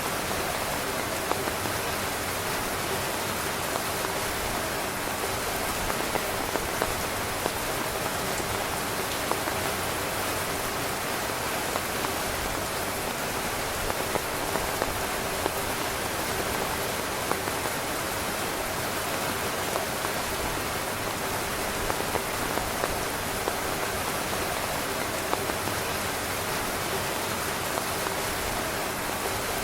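Steady rain falling on a tent, a dense hiss with many small sharp drop taps on the fabric.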